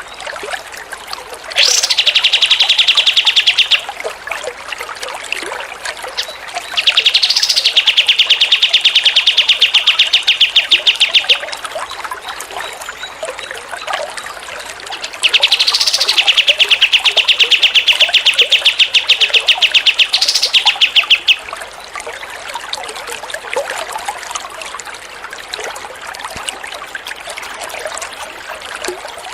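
A songbird singing a very fast, high trill in three bouts, each opening with a quick rising note and each longer than the one before, over steadily trickling water.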